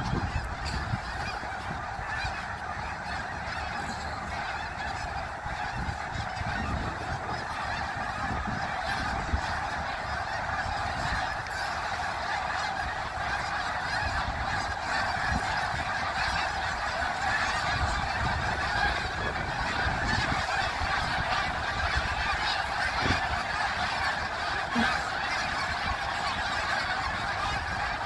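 A large flock of migrating geese calling together: a continuous, dense chorus of overlapping honks with no break.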